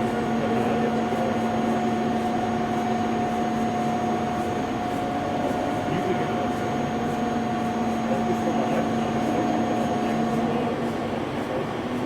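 REM SC 53 CNC two-column vertical turret lathe running: a steady machine hum with two held tones, the higher of which stops about ten seconds in.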